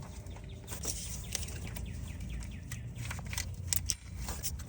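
Scattered light clicks and clinks of metal tools and wire terminals being handled while the electrical wires are connected to the alternator, over a steady low background rumble.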